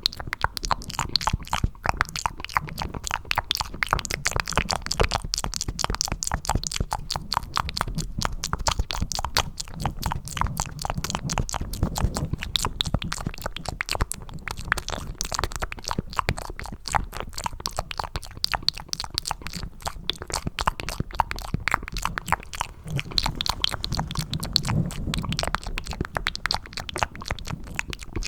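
Cupped ASMR mouth sounds: rapid wet clicks and smacks of lips and tongue close to the microphone, made to sound like eating macaroni and cheese. They go on without a break over a low rumble.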